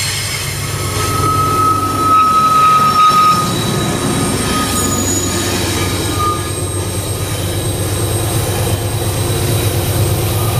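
Loaded iron-ore freight wagons rolling past close by over a steady low rumble, their steel wheels squealing against the rail in a high, steady tone from about a second in for a couple of seconds, and again briefly around six seconds.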